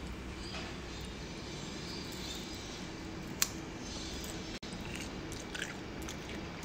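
Faint biting and chewing of a frozen chocolate-and-banana treat with nuts, over a steady low background hum, with one sharp click about three and a half seconds in.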